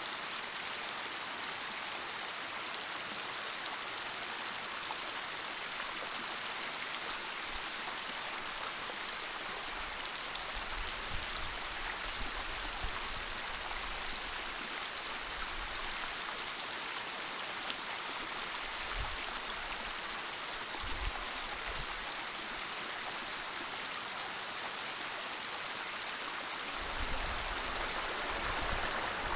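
Waterfall rushing in a steady, even wash of water noise, with a few brief low rumbles in the middle and near the end.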